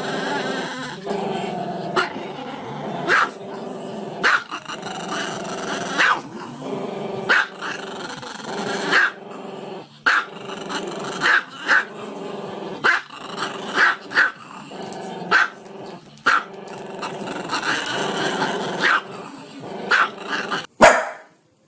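Small dog howling with its head raised: a drawn-out, wavering vocal sound broken by sharp yaps about once a second. It cuts off briefly near the end.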